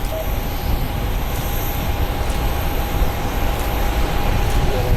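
Steady jet-engine noise of a landing airliner, heavy in low rumble with a faint steady whine above it.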